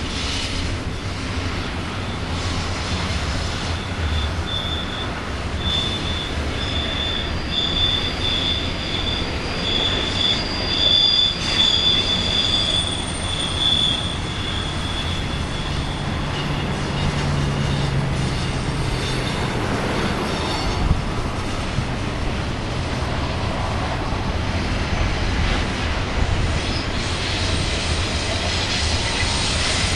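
Freight train cars rolling past with steady wheel-on-rail noise, and a high-pitched wheel squeal that comes and goes for several seconds in the first half.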